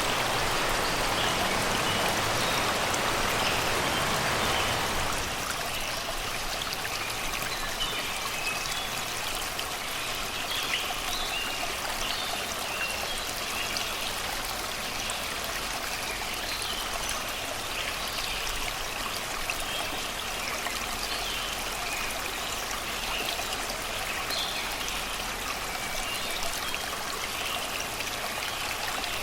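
Shallow river babbling and trickling over rocks and stones, a steady rush that is louder for the first five seconds and then settles a little lower. Birds chirp in the background throughout.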